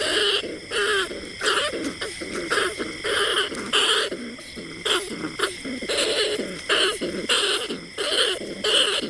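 Rat calls used as a lure for bandicoot rats and field rats: short, hoarse calls repeated in an irregular run, about two a second.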